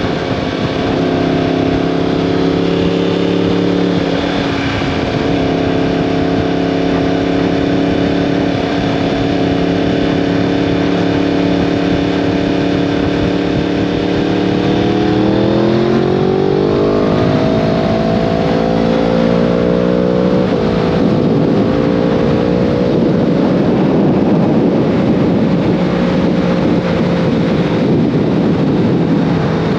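2015 Yamaha R1M's crossplane-crank inline-four through an Akrapovic exhaust, running at steady revs, then climbing in pitch as it accelerates about halfway through. Its note drops sharply soon after, and a rushing noise rises over a slowly falling engine tone.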